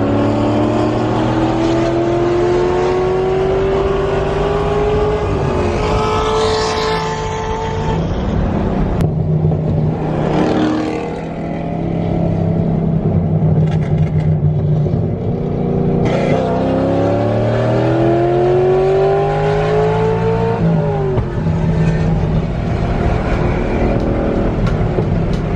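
Car engine accelerating hard, its pitch climbing steadily and then dropping at an upshift, twice: once about five seconds in and again about twenty-one seconds in. Between the pulls, cars pass by with a quick falling sweep about seven and eleven seconds in.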